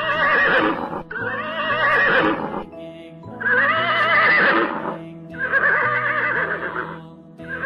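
Horse whinnying four times in a row, each call about a second to a second and a half long with a wavering, quavering pitch, over background music.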